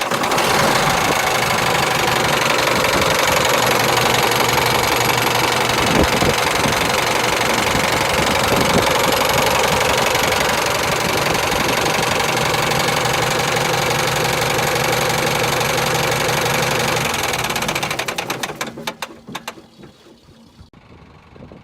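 Diesel engine of a 1991 Freightliner FLD112 truck tractor running steadily just after starting. The sound drops away sharply near the end, leaving only a faint low running sound.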